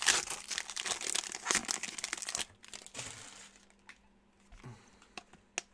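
Plastic wrapper of a trading card pack crinkling as it is handled and opened, for about two and a half seconds, followed by faint scattered clicks of cards being handled.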